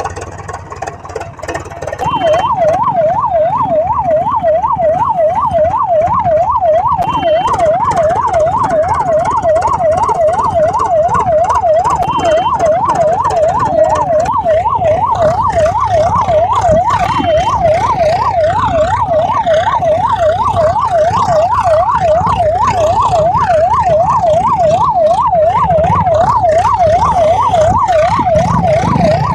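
Electronic siren with a fast up-and-down wail a few times a second. It starts about two seconds in and carries on steadily, with a short high beep about every five seconds.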